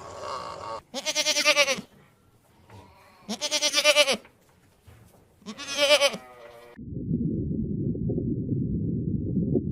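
Three loud, wavering bleats from a sheep or goat, each about a second long with short pauses between. Then, about seven seconds in, a steady low rumbling noise takes over.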